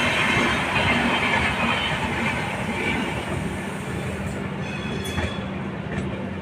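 Passenger train running on the rails: a steady rumble and hiss, with a low steady hum coming in about halfway and a few sharp clicks near the end.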